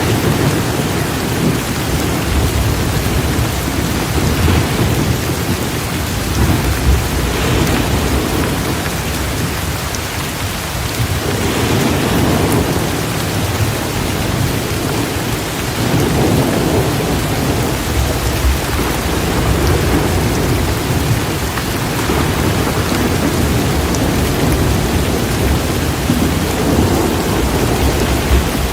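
Torrential rain pouring steadily, with low thunder rumbling and swelling again and again underneath it.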